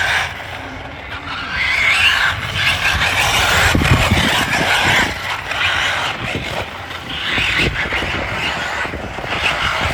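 Radio-controlled car driving in repeated surges, its tyres and motor giving a hissing, grinding noise that swells and fades several times.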